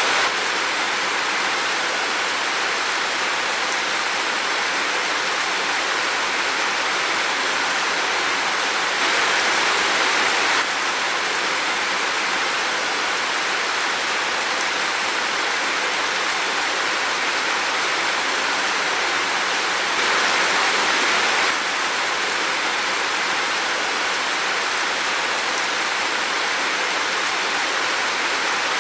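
Heavy rain falling steadily, a dense even hiss, swelling slightly louder twice for a second or so.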